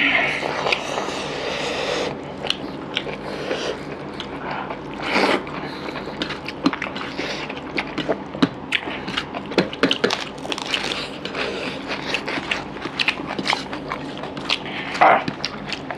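Close-up eating sounds of two people chewing mouthfuls of rice and fish curry eaten by hand, with crunchy bites of raw spring onion: a steady run of short wet clicks and crunches, a few louder ones about five seconds in and near the end.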